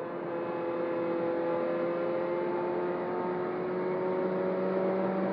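Turbocharged Toyota Corolla Altis engine accelerating, its pitch rising slowly and steadily and growing a little louder.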